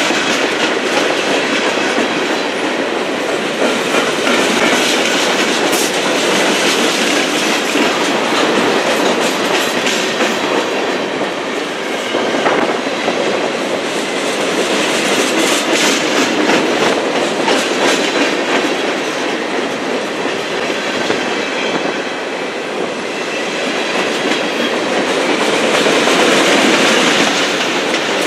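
Freight cars of a CN manifest train rolling past, a steady, loud clatter of steel wheels on the rails with scattered sharp clicks as the wheels cross rail joints.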